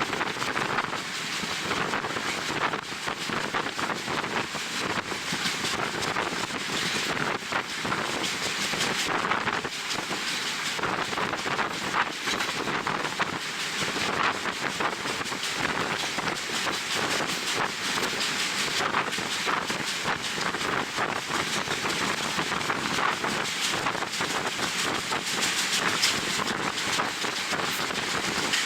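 Wind buffeting the camera microphone from a moving passenger train's open window, a steady rushing noise over the train's running sound.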